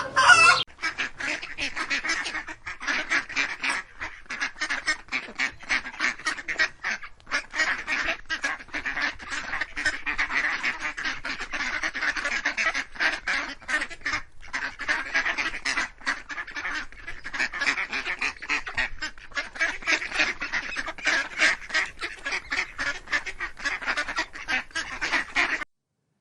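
A flock of birds calling without a break, many short calls overlapping, stopping abruptly just before the end.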